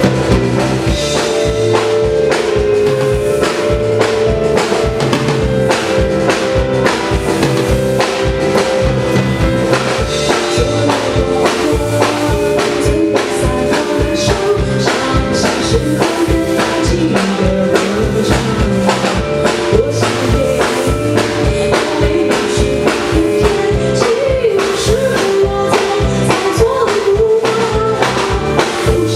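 Piano-rock trio playing a song live: the drum kit keeps a steady beat under keyboard and bass, with a voice singing over it.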